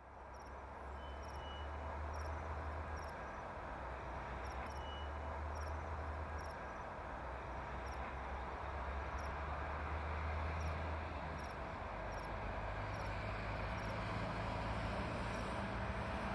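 Low, distant rumble of an approaching EP1 electric locomotive with a passenger train, filling out slightly toward the end, under short high insect chirps every second or so from the grass.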